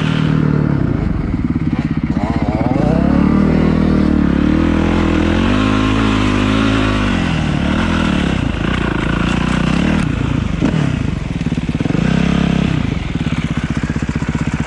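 Motocross bike engine revving up and down under riding, its pitch rising and falling again and again as the rider accelerates and backs off, easing toward a steadier, lower note near the end.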